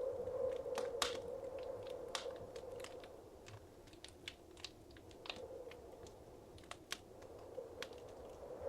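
Wood fire crackling in a fireplace: irregular sharp pops and snaps over a soft steady rush of burning, which is fuller in the first few seconds and again at the very end.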